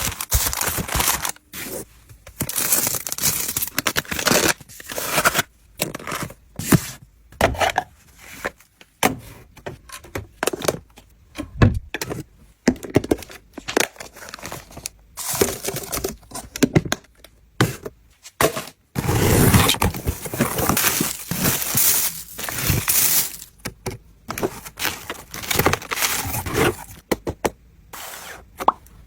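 Packaging being torn open and crinkled by hand: a long run of irregular rips and crinkles with short pauses between them.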